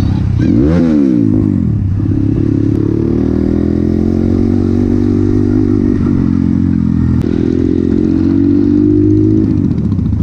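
Motorcycle engine running under way, heard from the bike: a quick rev up and down about a second in, then a steady pull with the pitch slowly rising, easing off near the end.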